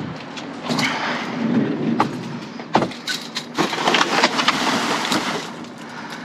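Rummaging through trash in a dumpster: irregular rustling with scattered knocks and clatters as items are shifted and handled.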